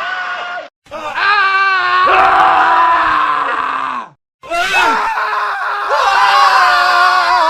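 Men screaming in a montage of separate scream clips, with short cuts to silence between them: about three screams, one at the start, one from about one second in, and one from about four and a half seconds in, their pitch wavering and sliding.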